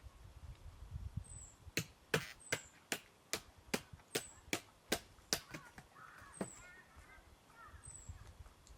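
Firewood being chopped: about eleven sharp strikes of a blade on wood in quick succession, two to three a second, that stop about halfway through. A bird gives short, high, thin descending calls throughout.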